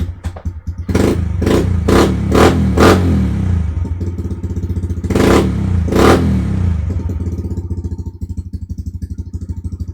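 110cc pit bike's single-cylinder four-stroke engine running and being revved: five quick blips of the throttle about a second in, then two bigger revs around the middle, settling back to a steady, pulsing idle.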